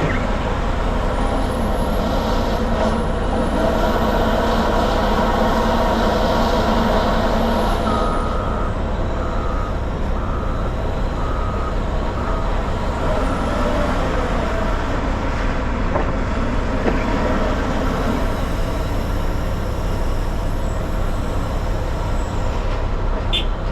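Dump truck's diesel engine running steadily. About eight seconds in, a vehicle's backup alarm beeps five times.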